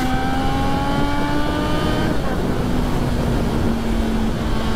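Triumph Street Triple's three-cylinder engine accelerating, its pitch rising for about two seconds, then easing off and holding a steady cruise. Heavy wind noise rumbles on the microphone throughout.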